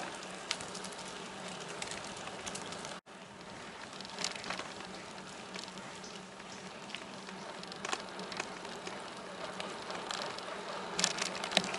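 Steady hiss of a bicycle rolling along a paved trail, with scattered light ticks; the sound cuts out for an instant about three seconds in.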